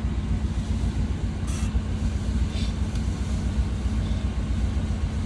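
Off-road 4x4 vehicle running with a steady low engine rumble. Two brief higher-pitched noises come about a second and a half in and again about a second later.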